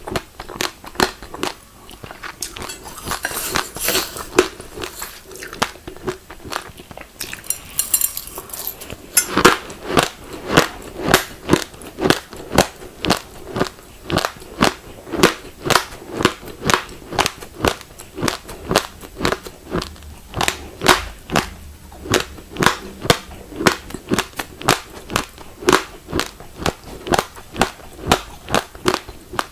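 Close-miked chewing of raw glutinous rice grains: crisp, evenly spaced crunches, about two to three a second, with two short stretches of finer, hissy crackling in the first nine seconds.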